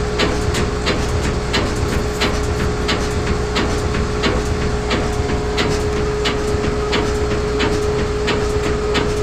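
GE front-load washer in its spin cycle: a steady hum with a single whining tone, and a loud thumping about twice a second as something inside knocks against the cabinet with each turn of the drum. It happens with medium and large loads, and the cause is unknown.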